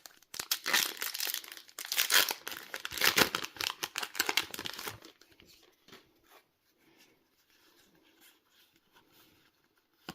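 A Yu-Gi-Oh booster pack wrapper being torn open and crinkled for about five seconds, followed by faint rustling as the cards are handled.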